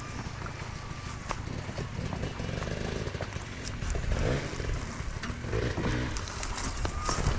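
Enduro motorcycle engine running as the bike is ridden, with scattered clicks and knocks.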